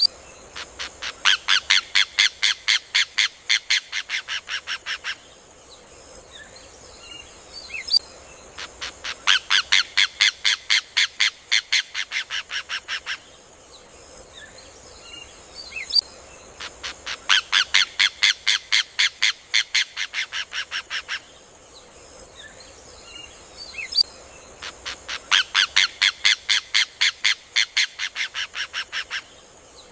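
Rufous hornero singing four bouts of loud, rapid, evenly repeated notes, each about four seconds long, loudest at the start and tapering off. A steady high hiss and a few faint chirps fill the gaps between bouts.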